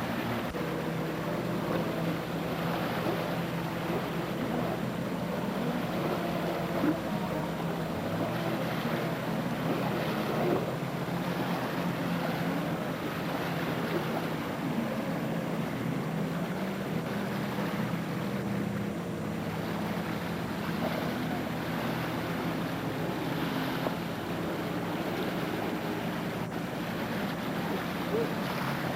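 Jet ski engine running on the water, its low drone steady and shifting pitch a couple of times, over steady water and wind noise.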